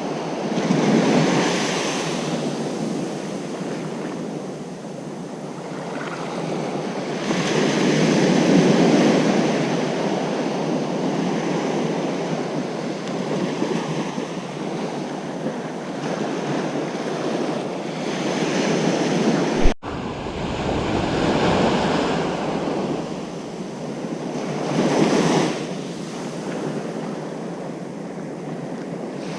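Ocean surf breaking on a beach: a continuous wash of water with several louder waves surging in, about a second in, around nine seconds in and again in the last third. About two-thirds of the way through there is a brief sharp click with a moment's dropout in the sound.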